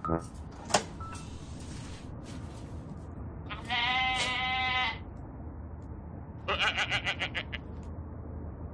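Two animal bleats: a long wavering one about three and a half seconds in, then a shorter, rapidly trembling one about six and a half seconds in.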